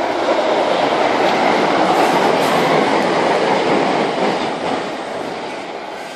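Electric multiple-unit passenger train running past along the track. The noise swells in the first second, holds, and fades from about four and a half seconds in.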